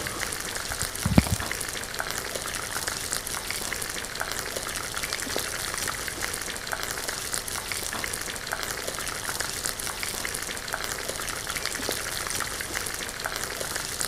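Breadcrumb-coated potato cutlets frying in hot oil in a pan: a steady crackling sizzle, with one dull thump about a second in.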